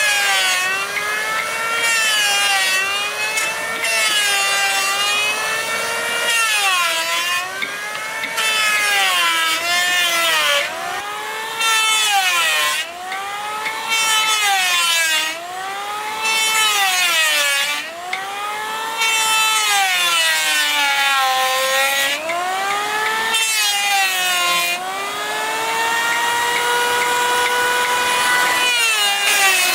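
A power tool working wood, its motor whine dipping and recovering in pitch over and over, about every one and a half to two seconds, as it loads up in the cut.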